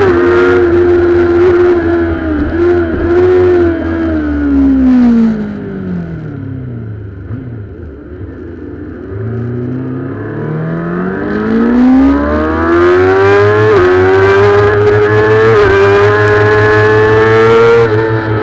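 Kawasaki ZX-6R inline-four race bike engine at high revs, falling away steadily as the rider shuts off for a slow corner, running low and quieter for a few seconds, then revving back up hard to high revs and holding there near the end.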